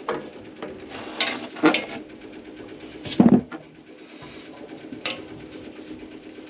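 Hand tools clanking and knocking in a run of separate knocks, the loudest about three seconds in, over a faint steady hum.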